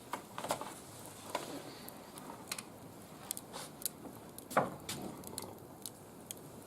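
Wood fire crackling in a barbecue grill, with irregular small pops and snaps, and one louder short sound about four and a half seconds in.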